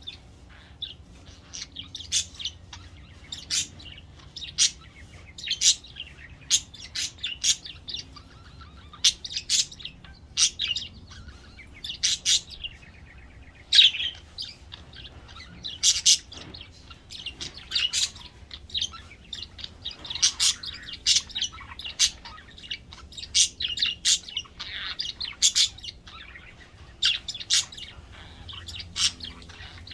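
Pet budgerigars chirping: short, high chirps and tweets, about one or two a second.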